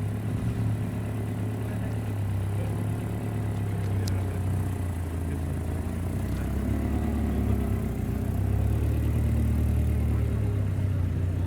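Car engine idling steadily, a little louder in the second half.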